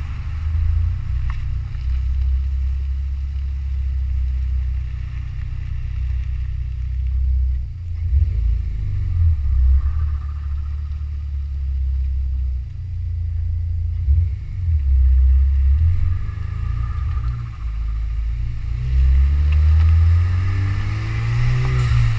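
Exhaust of a 2012 Buick Regal GS's turbocharged 2.0-litre four-cylinder through Borla S-Type mufflers: a deep, steady exhaust note that swells and dips, then rises in pitch near the end as the engine picks up revs.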